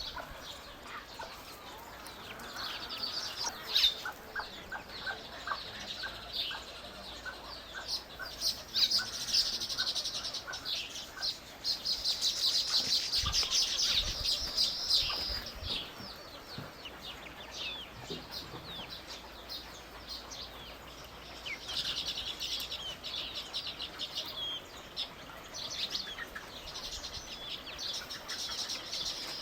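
Small birds chirping and twittering, with bouts of rapid high-pitched chatter, the busiest about halfway through. Under the early part runs a series of evenly spaced short lower notes, about two a second.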